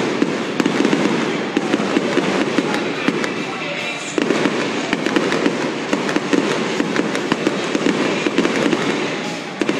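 Aerial fireworks bursting overhead in a dense, rapid string of bangs, with a fresh volley starting about four seconds in.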